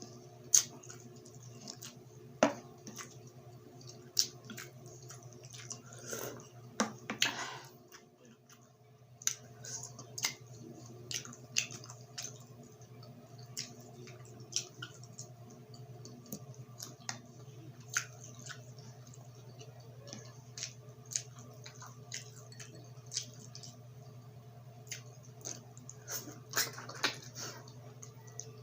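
Close-mic eating sounds of grilled pork and chicken street food: wet chewing and mouth clicks at irregular intervals, over a steady low hum.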